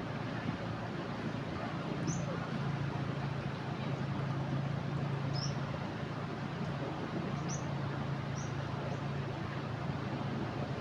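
Swollen river in flood rushing steadily past, with a low steady hum underneath. A bird gives a few short high chirps over it, about two, five, seven and eight seconds in.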